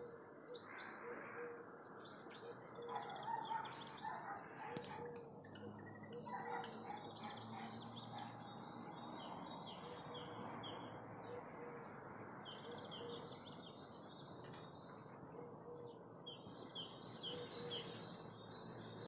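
Songbirds chirping and singing, short high chirps repeated all through, with a few lower held notes now and then, over a soft steady hiss of the open air.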